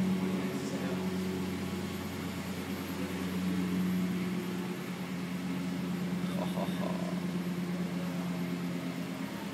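Lexus LFA's 4.8-litre V10 idling steadily.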